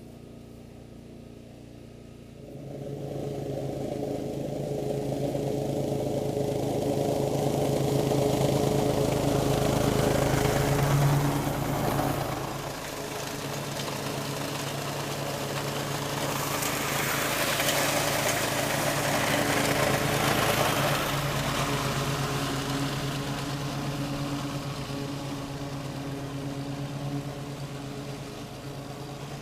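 A vehicle engine comes on about two seconds in and runs steadily, with a louder rushing road noise swelling twice, around ten seconds and again near twenty.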